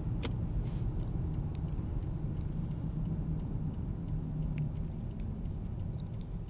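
A car driving, heard from inside the cabin: a steady low rumble of engine and tyres, with faint scattered light ticks.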